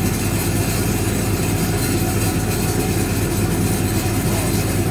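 1965 English Electric Liberator washing machine running, its motor giving a steady low hum.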